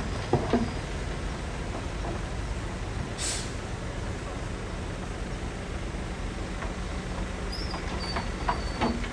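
Heavy diesel earthmoving machinery running steadily, with a few sharp metallic knocks near the start and again near the end. There is a short hiss about three seconds in.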